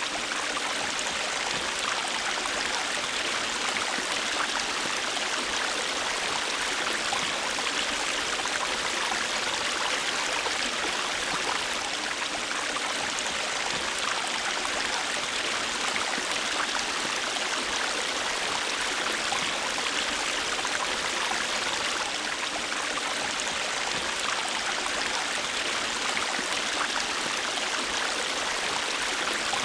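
River water running steadily over rocks, an even rushing and babbling.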